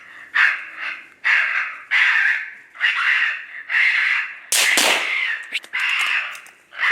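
Raccoon call sounding a series of harsh, raspy squalls, a little more than one a second, imitating raccoons squalling. About four and a half seconds in, a loud sharp bang cuts across the calling.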